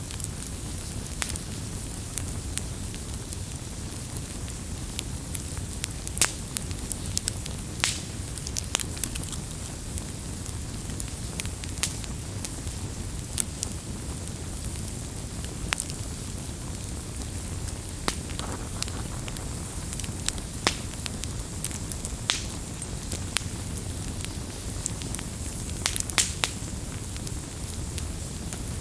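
Wood campfire burning, with a steady low rumble of the flames and frequent irregular crackles and pops.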